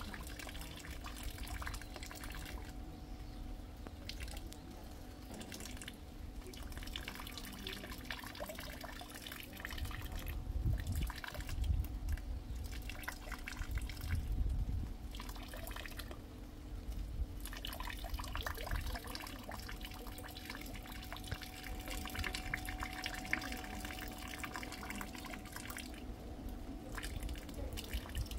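Rain dripping and rainwater trickling: many small drops falling irregularly, over a faint steady hum. A low rumble swells in the middle and fades again.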